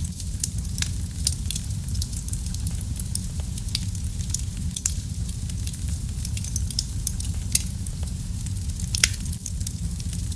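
Wood fire burning in a fireplace: a steady low rumble of flames with frequent small irregular crackles and pops, two sharper pops about seven and a half and nine seconds in.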